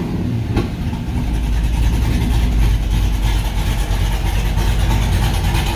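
Cammed 6.0-litre LS V8 idling steadily, with a short click about half a second in.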